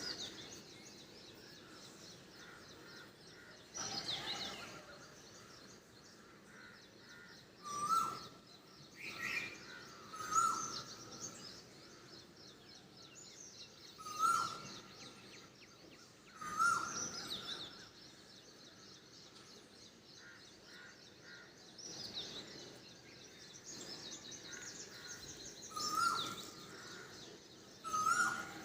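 Asian koel calling: about six short whistled notes repeated a few seconds apart, with other birds chirping higher in the background.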